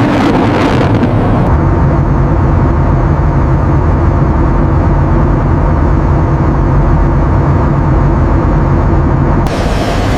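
Jet aircraft engine running, a loud, steady rumble. It turns duller, with the high part gone, from about a second and a half in until near the end.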